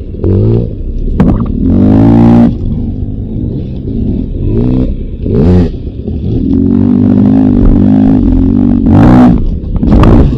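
Beta 300 RR two-stroke dirt bike engine being ridden, revving up and down, with sharp throttle rises about two, five and a half and nine seconds in.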